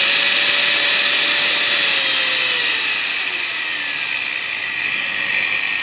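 Makita GA4040C 100 mm angle grinder running with a steady motor whine and hiss. From about two seconds in, the whine slides down in pitch as the motor slows.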